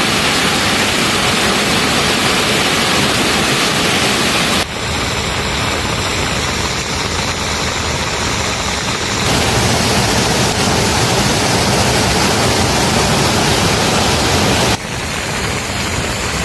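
Heavy rain pouring down as a loud, steady hiss. Its tone changes abruptly three times, about 4.5, 9 and 15 seconds in.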